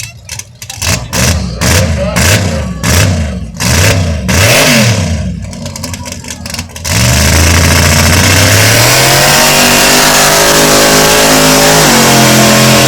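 Mud bog race vehicle's engine being revved hard over and over, pitch rising and falling about once every half second with sharp exhaust cracks, then about seven seconds in going to full throttle and running flat out, its pitch climbing and holding as it makes its run.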